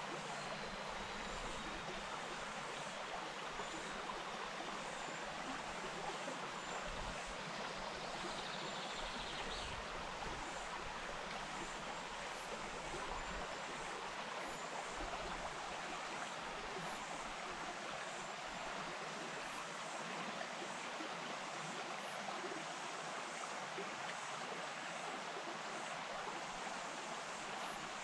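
Wainuitewhara stream running over rocks, a steady rush of water with no change in level. A faint short chirp, likely a bird, sounds about eight to ten seconds in.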